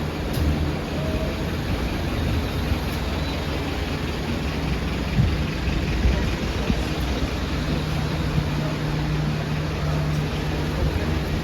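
Street traffic with a vehicle engine idling nearby: a steady low drone over the wash of city noise.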